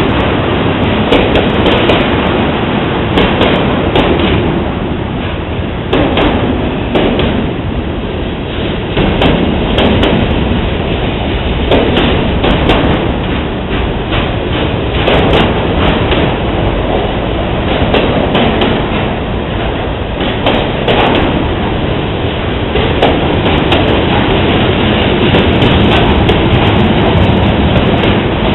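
Freight train passing at close range. The steel wheels make a steady loud rumble on the rails, with repeated irregular clanks and knocks as tank cars, a centerbeam lumber flatcar and boxcars roll by.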